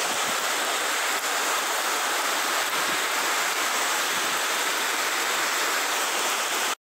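Steady rushing noise of heavy rain and floodwater runoff, picked up on a phone's microphone, cutting off abruptly near the end.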